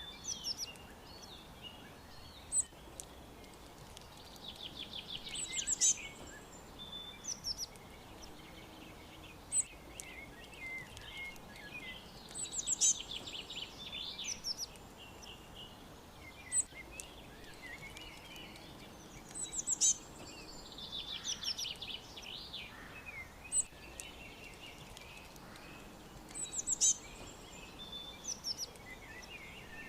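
Several songbirds chirping and singing: a rapid descending trill recurs about every eight seconds, with short high chirps in between, over a faint steady background hiss.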